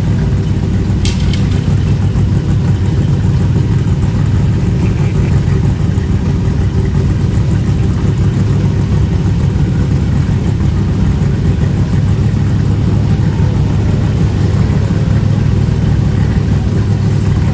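Car engine running steadily at a constant, even speed, low and loud, with a short click about a second in.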